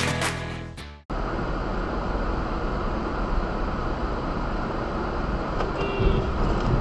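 Background music fading out, then a steady rumble of road and engine noise from a moving car, picked up by a dashcam microphone.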